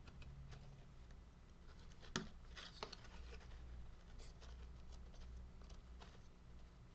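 Faint scraping and light clicks of a hand tool working a small wooden carving, with one sharper click about two seconds in.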